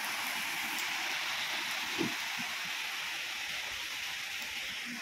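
Heavy rain falling steadily on wet ground and foliage, an even hiss.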